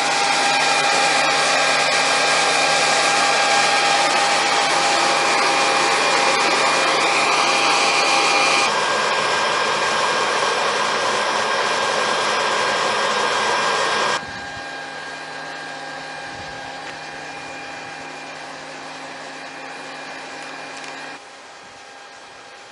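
Leaf blowers running steadily, blowing air into a water-filled flood barrier tube to inflate it: a steady whine and hiss. The sound drops sharply about fourteen seconds in and again near the end.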